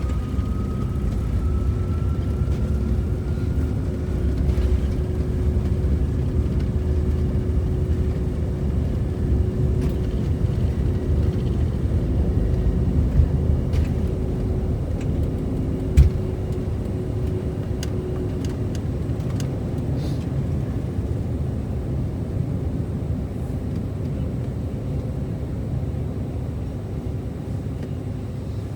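Delta CRJ900's GE CF34 turbofan engines at takeoff power: a steady low rumble with a faint whine rising in pitch early on, slowly easing off toward the end. A single sharp thump sounds a little past halfway.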